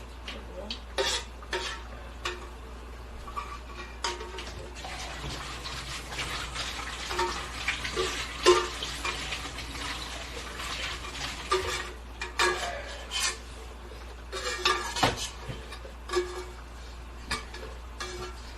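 Utensils clinking, knocking and scraping against dishes in irregular short strikes, as during eating.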